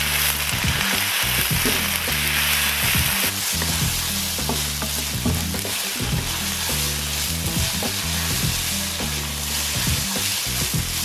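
Diced onions, potatoes and red curry paste sizzling in a hot wok, stirred with a wooden spatula that scrapes and knocks against the pan now and then. A low, steady bass line of background music runs underneath.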